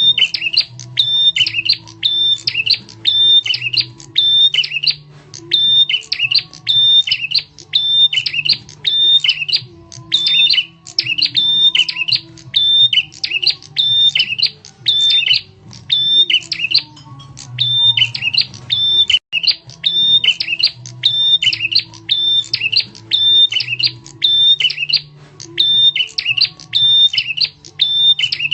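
Prenjak tamu (a prinia) call played as a looped bird-lure recording: the same loud, sharp chirping phrase repeats about once a second without a break. There is a faint low hum underneath.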